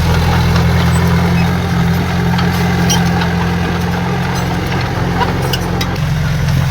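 Heavy diesel engine of earthmoving equipment running steadily at a low, even speed, with a few faint clicks above it.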